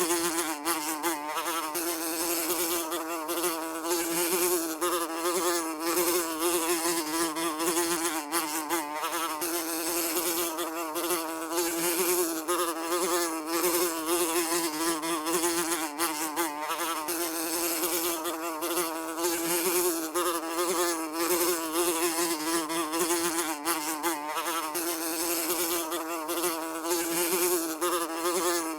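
A housefly buzzing continuously, its steady wingbeat hum wavering slightly in pitch as it flies about.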